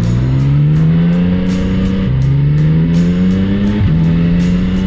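Motorcycle engine accelerating hard through the gears: its pitch climbs steadily, drops at an upshift about two seconds in and again about four seconds in, then climbs again.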